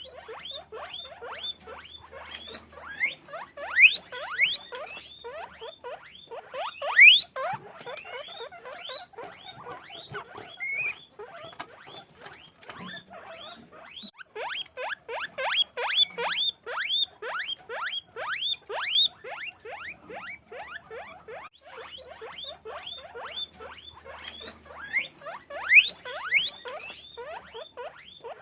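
Many guinea pigs wheeking: a dense chorus of short, rising squeals, several a second, some much louder than the rest, over a faint steady high-pitched whine.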